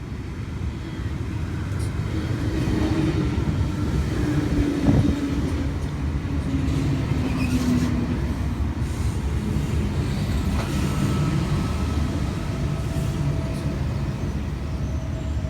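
Sydney Trains V-set double-deck electric intercity train arriving at the platform: a steady low rumble with a hum through the middle and a single knock about five seconds in.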